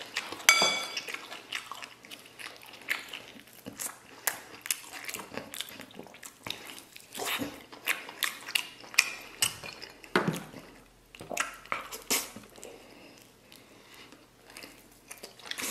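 Close-up mouth sounds of someone gnawing stewed lamb rib bones: wet smacking, sucking and chewing as the meat is pulled off the bone, in an irregular run of sharp clicks. The loudest is a sharp click with a short ring about half a second in.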